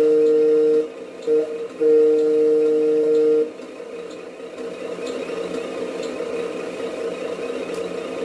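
Tamiya Scania RC truck's electronic sound unit sounding a two-tone air horn three times, long, short, long, over a steady simulated diesel idle that carries on after the horn stops.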